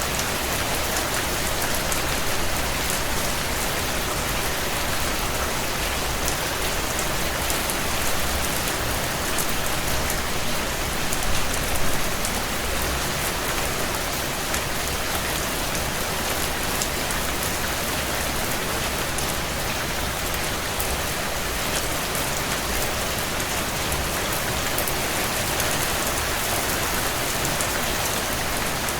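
Heavy rain falling steadily against window panes, a dense even hiss, with faint small crackles of a wood fire mixed in and a brief swell in loudness about eleven seconds in.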